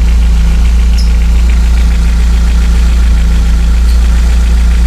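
Toyota 16-valve four-cylinder engine idling steadily with engine flush circulating in its oil, loud through an exhaust leaking at the lower muffler. The ticking heard earlier seems to have largely gone.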